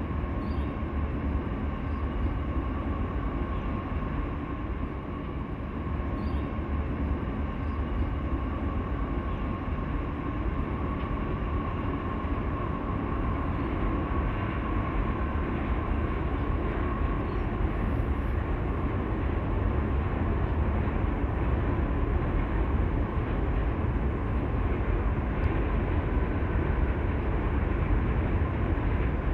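Diesel-hauled freight train running, a continuous heavy rumble with a faint steady whine over it, growing slightly louder toward the end.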